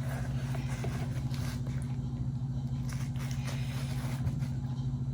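A steady low hum, with faint rustling and light clicks of food being handled and arranged on a plate.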